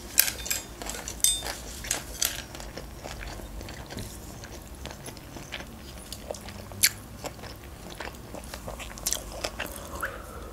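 Close-miked chewing of food with wet mouth clicks, and a few sharper clicks and taps, one louder about seven seconds in. Near the end comes a short sip from a coffee mug.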